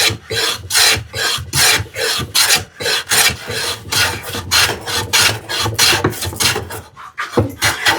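Jack plane, its blade set slightly heavy, taking quick repeated strokes across a wooden drawer part, about two passes a second; each pass is a rasping hiss of a shaving being cut.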